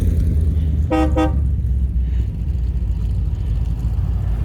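A car horn gives two short toots about a second in, over the steady low rumble of a car engine rolling past.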